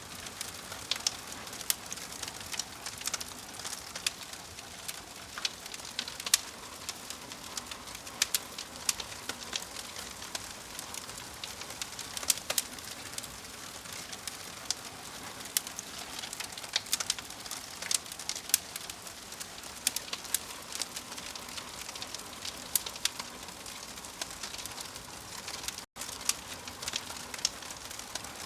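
Wood fire burning in a fireplace: a steady hiss with frequent sharp, irregular crackles and pops from the logs. There is a split-second cut in the sound near the end.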